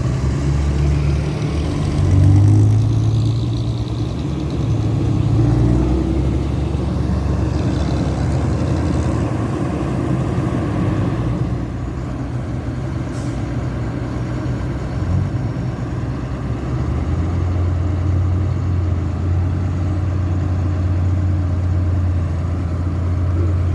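Heavy diesel engines of an excavator and dump truck running continuously, the low engine note shifting up and down with the load.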